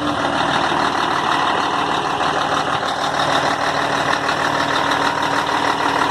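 Scania 113 truck's six-cylinder diesel engine idling steadily.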